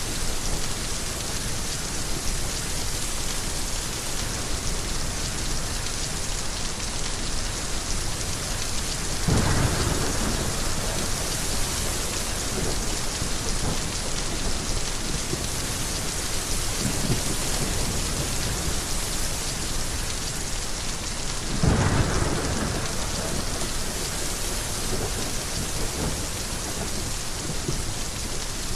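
Heavy rain falling steadily, with a rumble of thunder about ten seconds in and another, louder one a little over twenty seconds in.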